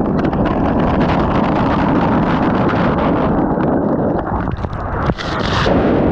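Loud wind buffeting the microphone at sea, with water noise and many small knocks, and a brief hissing rush about five seconds in.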